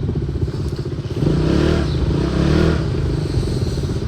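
Motorcycle engine running while riding, a rapid low pulsing throughout. About a second in the sound swells louder for a second and a half, then settles back.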